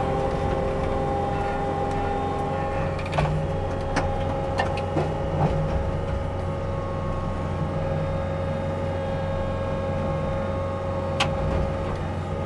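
A heavy machine's diesel engine and mulching head running steadily, with several sharp knocks about three to five seconds in and one more near the end, typical of the mulcher's blades striking rock or wood.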